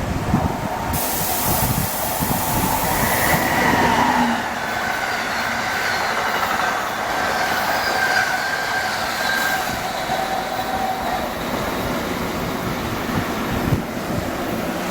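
Passenger train passing close by: a steady rumble and clatter of wheels on the rails, with faint, steady high-pitched squealing tones through the middle.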